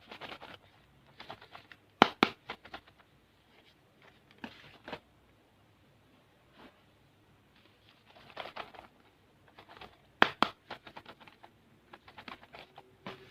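Plastic candy packets being handled: scattered bursts of crinkling wrapper with a few sharp clicks, the loudest about two seconds in and again about ten seconds in.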